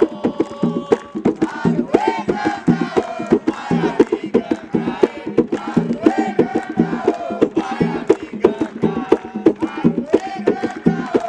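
Drums beating a quick, steady rhythm while a group of voices sings a chant over them.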